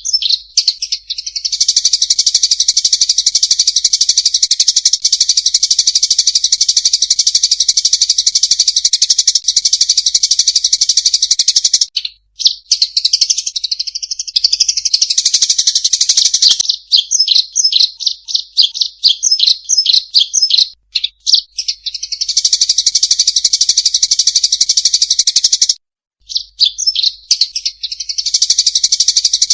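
Eurasian tree sparrows giving rapid, high-pitched fighting chatter in a dense, continuous stream. It breaks off abruptly about twelve seconds in and again near the end, and in the middle it turns into a run of separate quick chirps.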